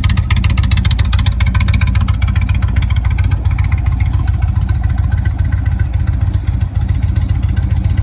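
A 2019 Indian Chieftain Dark Horse's air-cooled V-twin engine idling with a steady, even pulse.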